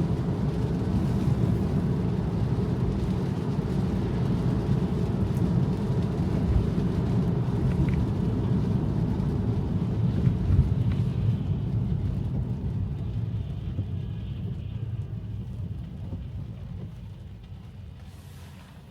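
Tyre and road noise on wet pavement, heard inside an electric Tesla's cabin: a steady low rumble with a light hiss above it. It fades over the last several seconds.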